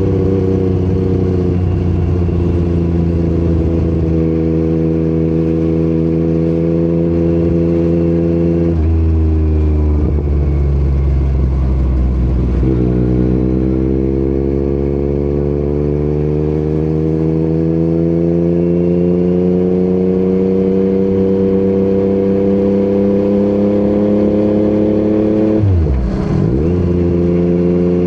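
Yamaha MT-09's three-cylinder engine through an Akrapovic exhaust, under way on the road. Its pitch drops about nine seconds in and again around thirteen seconds, then rises slowly for a long stretch, with a quick dip and recovery near the end, as with a gear change.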